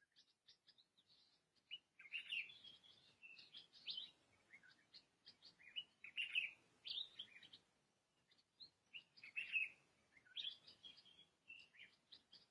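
Wild birds chirping and twittering in bursts of quick high notes, with short pauses between the phrases.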